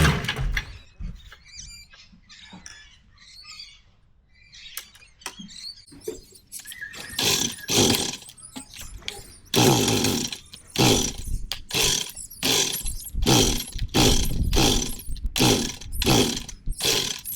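Kawasaki KD80 two-stroke dirt bike engine: it cuts out right at the start, then after a few quiet seconds it is kicked over again and again, coughing in short bursts about once a second without catching. The owner says it was flooded.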